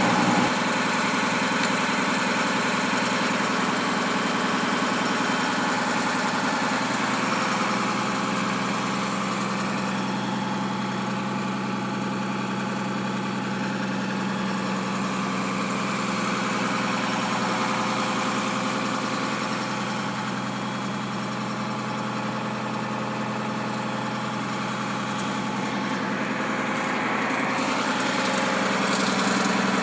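Trail groomer's engine idling steadily, running again after a breakdown repair on the trail.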